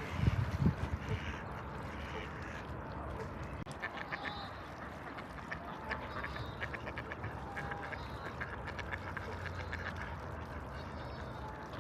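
Animal calls, likely birds: rapid runs of short, clicky notes, strongest from about four to nine seconds in, over a steady low background rumble. There are a few low thumps in the first second.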